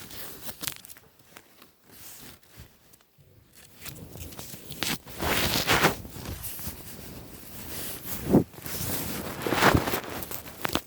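Irregular rustling and handling noises, as of bedcovers being shifted, with a sharp click about two-thirds of the way through.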